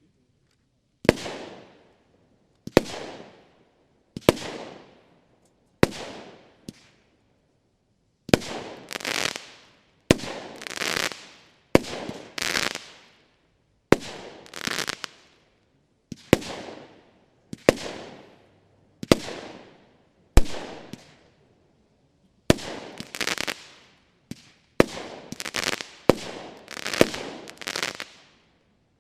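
Argento Wintersun 20 mm, 16-shot firework battery (cake) firing its shots one after another, roughly every one and a half to two seconds. Each shot is a sharp report followed by a fading hiss.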